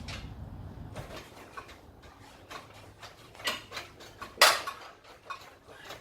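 Scattered metal clicks and knocks from hand tools and parts working in a car's engine bay, the loudest a sharp clank about four and a half seconds in. A low hum stops about a second in.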